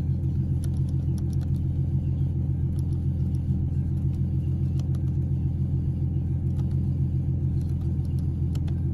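2014 Ford Mustang's 3.7-litre V6 idling steadily, running on a freshly installed battery after a no-start.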